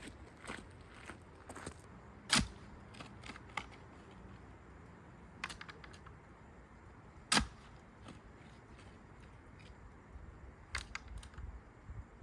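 Scattered sharp clicks and knocks over a quiet background, the two loudest about two and seven seconds in, with a few quick ones near the end.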